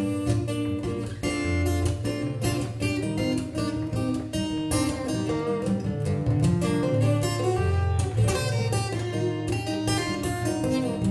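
Acoustic guitars playing an instrumental passage of a song: steady strummed chords with a melody line moving over them.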